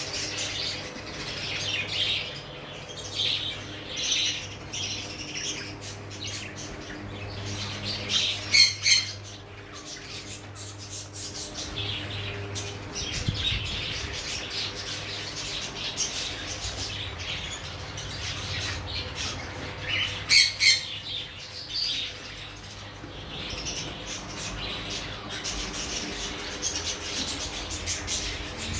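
A mixed flock of caged pet parrots and finches chirping and chattering throughout, with two loud squawking calls, about nine seconds in and again about twenty seconds in, over a steady low hum.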